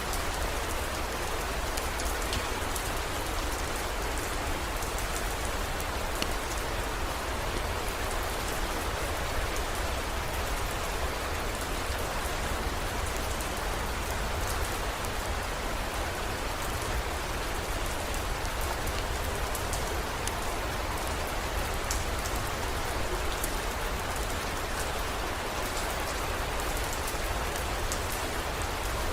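Heavy rain falling steadily: a dense, even hiss with scattered sharp drop ticks and a steady low rumble underneath.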